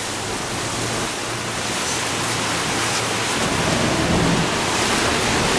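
Steady rush of wind and water noise on a moving boat, with a low, steady engine hum underneath.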